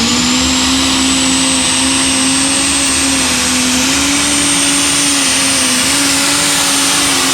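Light super stock pulling tractor's engine at full throttle under load on a pull, its pitch climbing at first and then holding with small wobbles. A thin, high, steady whine runs over it.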